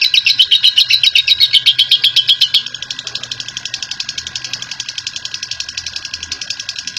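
Lovebird ngekek: a long, rapid, even chattering trill of sharp high chips. About two and a half seconds in it drops suddenly to a quieter, faster chatter that keeps going.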